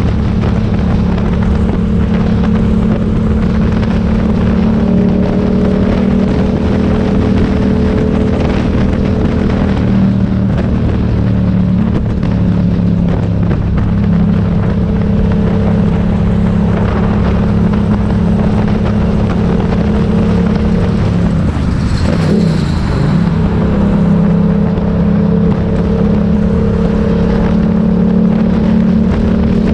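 Motorcycle engine running at a fairly steady pitch with small rises and falls. A brief high-pitched squeal comes about three-quarters of the way through.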